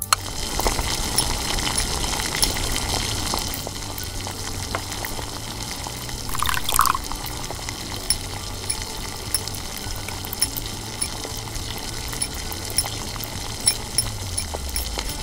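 Liquid pouring steadily in a miniature kitchen, with a short, louder higher-pitched sound about seven seconds in.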